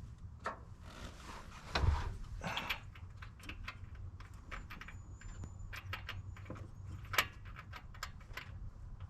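Irregular small metallic clicks and taps of hand tools working on an engine part, with a dull thump about two seconds in.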